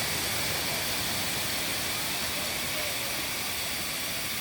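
Steady rushing of a waterfall, with a continuous high drone of insects over it.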